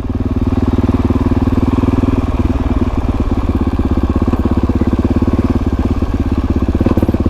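Dirt bike engine running steadily and close up, with an even, rapid pulsing beat.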